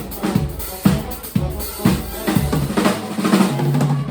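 Live band music driven by a drum kit, with the bass drum landing about twice a second under snare hits. About three seconds in, the drums drop out and a low chord is held, as the song reaches its ending.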